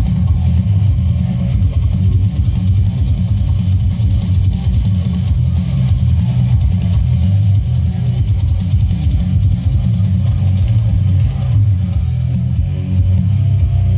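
Loud music with a guitar-led melody, played through a large parade sound system, heavily dominated by bass.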